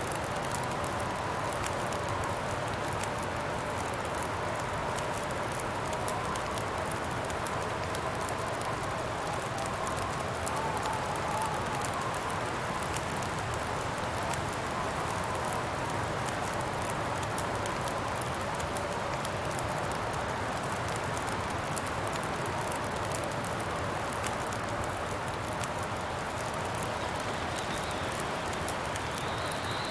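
Steady wind blowing with a faint wavering whistle, over the fine crackling of a campfire.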